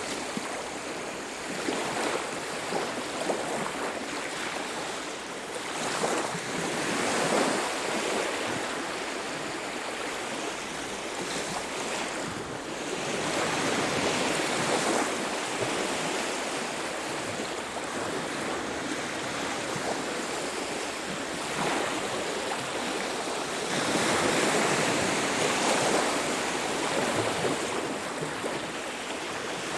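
Ocean surf washing onto a beach, a steady rush of water that swells louder as waves break, three times in the span: early on, about halfway, and near the end.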